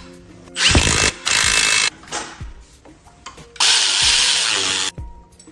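A power tool runs in two bursts of a little over a second each, the second about three seconds after the first, as bolts are driven while the rebuilt engine is mounted back into the motorcycle frame.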